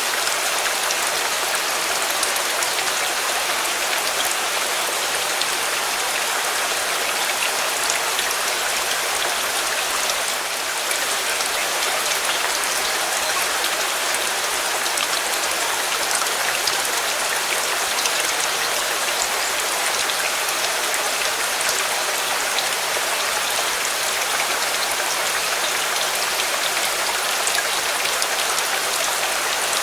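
Steady heavy rain falling, an even hiss dense with fine raindrop ticks, with a brief dip in level about ten seconds in.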